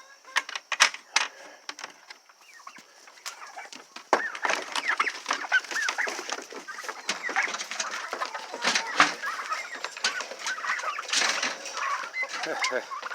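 A few sharp knocks in the first seconds, then a flock of chickens clucking, the calls thick and overlapping from about four seconds in.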